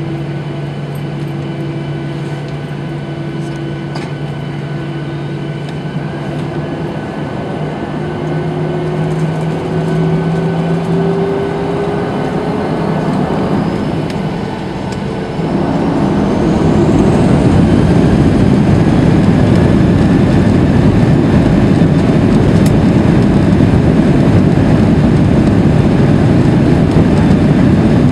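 Boeing 737-800's CFM56-7B turbofan engines spooling up for take-off. A steady low hum with tones at first, then the tones rise in pitch. At about sixteen seconds in, the sound jumps to a loud, steady roar at take-off thrust, with a high whine rising over it.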